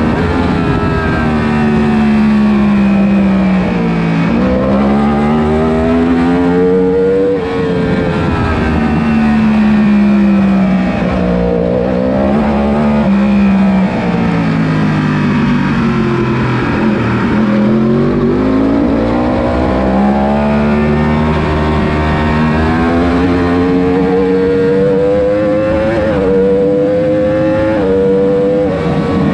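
1000 cc superbike racing engine at race pace. Its pitch climbs for several seconds and then drops away, over and over. The engine note falls sharply about seven seconds in and again near the end.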